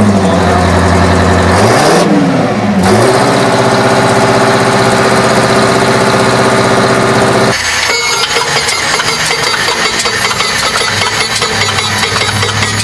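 Loud engine running with a steady note that swoops down and back up in pitch about two seconds in. A little past halfway it changes abruptly to a rougher, clattering engine sound.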